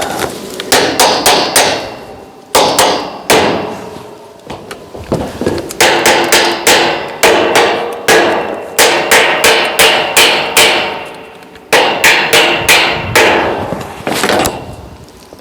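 Hammer blows on metal in quick runs of several strikes, each blow leaving a short ringing tone.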